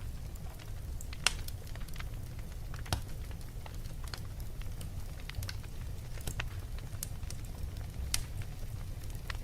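Wood fire burning in a fireplace: a steady low rumble of flame with irregular sharp crackles and pops, the loudest about a second in.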